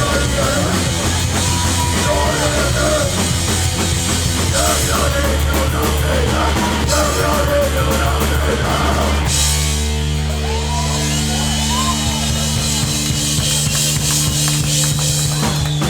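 Loud live hardcore punk band playing with distorted guitars and a pounding drum kit. About nine seconds in, the drums and cymbals stop and a held distorted chord rings on.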